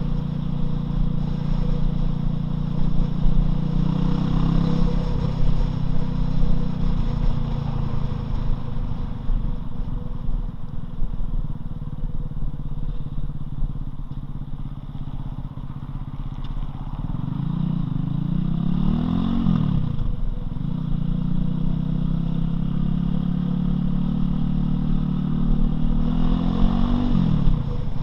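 Loncin LX250-12C motorcycle's single-cylinder engine running under way. Its note holds fairly steady, then rises and falls twice, about two-thirds of the way through and again near the end.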